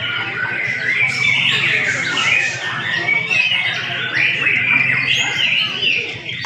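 Several young white-rumped shamas (murai batu) singing at once: a dense, overlapping stream of whistles, trills and chirps, over a steady low hum.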